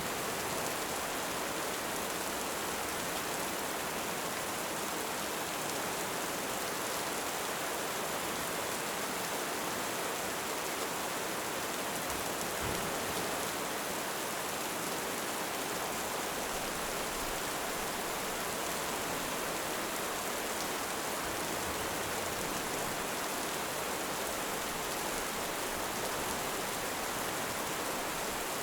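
Steady rain, an even rushing hiss with no breaks.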